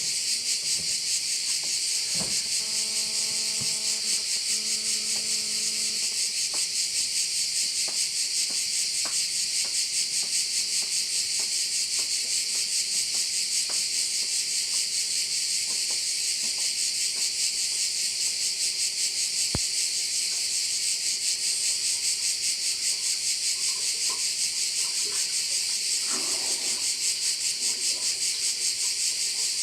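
Dense chorus of Mediterranean cicadas (Croatian cvrčci) buzzing with a fast, even pulse. A few seconds in, two faint held tones sound one after the other, each about a second and a half long.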